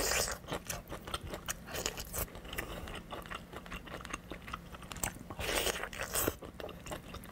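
Close-miked eating: biting into and chewing the meat of a large braised chicken drumstick, with wet mouth clicks and smacks throughout. It grows louder right at the start and again about five and a half seconds in.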